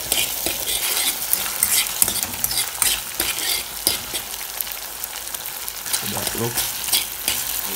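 Saltfish, onions, sweet peppers and tomatoes sizzling in oil in a pot, with a utensil stirring them and scraping and clicking against the pot. This is the saltfish-and-seasoning base for ackee and saltfish.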